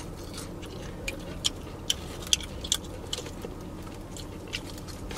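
Chewing and crunching a mouthful of crispy fried chicken: a string of irregular, crisp crunches as the breaded skin is bitten and chewed.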